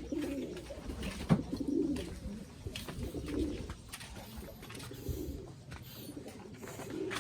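Domestic pigeons cooing, low coos repeating every second or two, with a sharp click about a second in.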